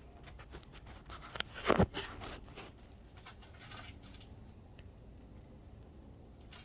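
Domestic pigeon pecking at food: a run of small irregular taps and scratches, loudest just under two seconds in.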